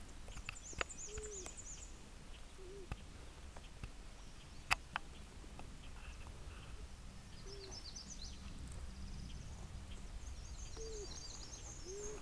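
Birds calling around a pond: high thin trills near the start and again in the second half, and several short, low hooting notes. A few sharp clicks stand out, the loudest about five seconds in, over a steady low background noise.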